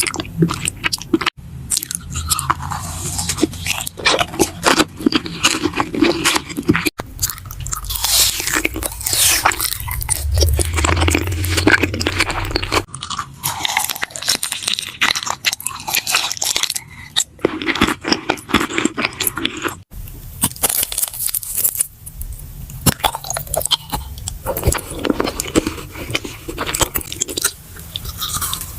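Close-miked eating sounds: crisp bites and crunchy chewing, in several short spliced segments that change abruptly a few times.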